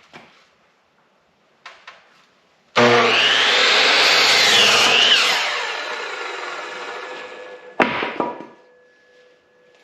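Electric saw starting suddenly about three seconds in and cutting through an old wooden fence board, its pitch dipping during the cut, then winding down over a couple of seconds. A sharp knock follows near the end.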